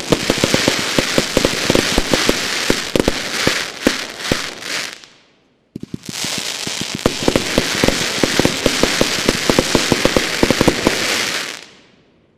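A Katan Special 5 firework battery (25 mm, 100 shots) firing a rapid volley of shots over a steady hiss. It stops abruptly about five seconds in, starts again moments later, and dies away near the end.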